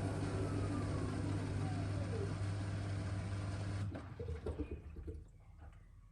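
Miele W1 washing machine running with a steady low hum and a falling whine, then shutting off abruptly about four seconds in, with a few clunks as it settles.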